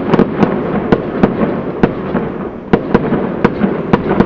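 Fireworks display: aerial shells bursting in a rapid, irregular string of about a dozen sharp bangs over a continuous rumble of further reports.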